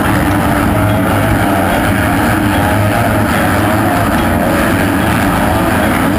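Motocross dirt bikes racing on the track: a dense, steady engine noise whose pitch wavers up and down as the riders open and close the throttle.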